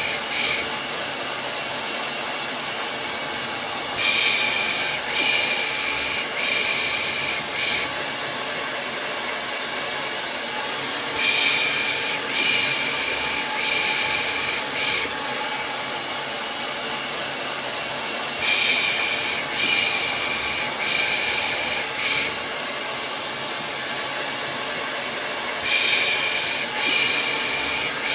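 Steady hair dryer blowing as white noise, with a rhythmic 'pış pış' shush over it: groups of four hissing shushes about a second apart, the group repeating about every seven seconds.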